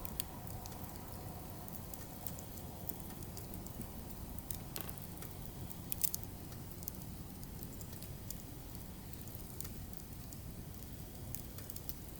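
Firewood burning, with scattered sharp crackles and pops over a steady low rumble; a small cluster of louder pops comes about six seconds in.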